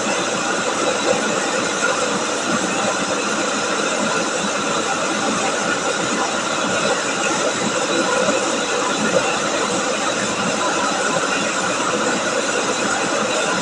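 Chao Payu rice milling machine running steadily, milling rice: a continuous, even mechanical noise with faint steady tones under it.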